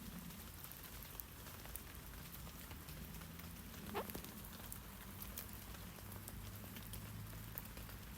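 Rain falling on tree leaves: a steady soft patter with scattered sharp drip ticks, over a faint low steady drone. One louder short tap stands out about four seconds in.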